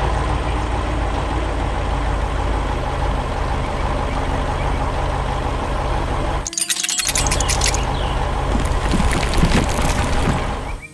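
Heavy truck engine running steadily with a low drone. About six and a half seconds in it breaks off for a moment under a short burst of bright, crackling clatter, then resumes with scattered rattling over it.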